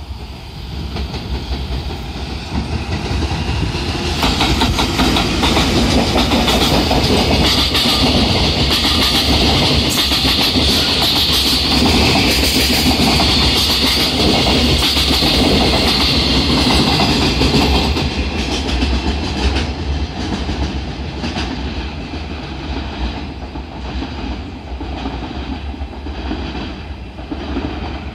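Freight train hauled by an EF210-300 electric locomotive passing close by, its Chiki 5400 flatcars loaded with long rails rumbling and clattering over the rail joints. The noise swells about four seconds in, stays loud until about eighteen seconds in, then fades while the last wagons clack past.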